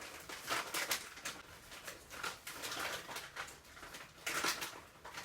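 Crisp potato chips crunching as they are bitten and chewed, in irregular crackly bursts.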